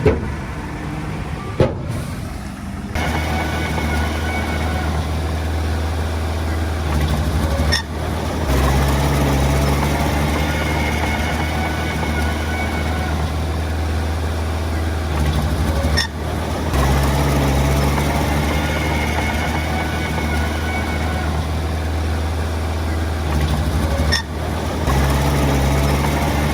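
Heavy diesel engine of a small bulldozer running steadily under load, with a sharp click and a brief drop in level about every eight seconds.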